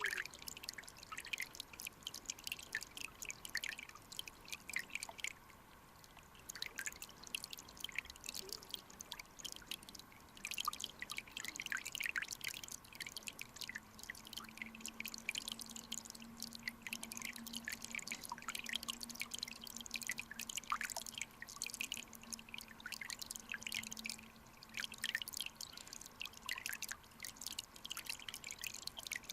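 Flowing mountain-stream water heard with the camera under the surface: a dense, irregular crackle of small ticks and pops, with a couple of brief lulls. A faint steady low hum runs through the middle part.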